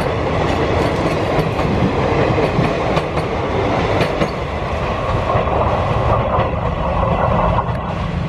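Passenger coaches of an Indian express train rolling past at speed: wheels clattering over the rail joints in a repeated clickety-clack over a steady rumble.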